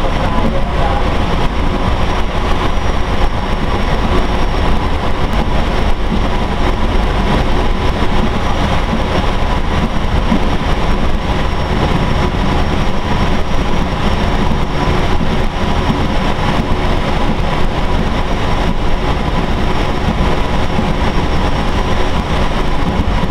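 Diesel railcar train running steadily on the rails, heard from inside the driver's cab: a constant engine and wheel rumble with a faint steady whine over it.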